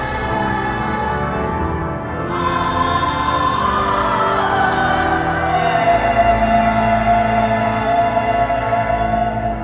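Choir singing sacred music over organ accompaniment, with long held notes ending on a high sustained note.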